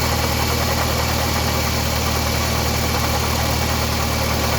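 Toyota Camry 2.4-litre four-cylinder engine idling steadily with a running noise from the engine's front end, which the owner suspects is a failing tensioner.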